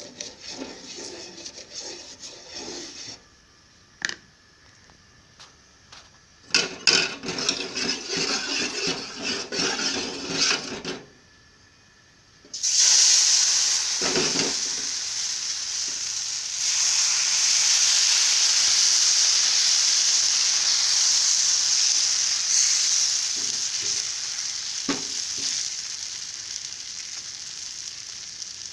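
Neer dosa batter stirred and clattered in its vessel in short bouts. About twelve seconds in it is poured onto a hot pan and a loud sizzle starts suddenly, running on steadily and slowly fading near the end.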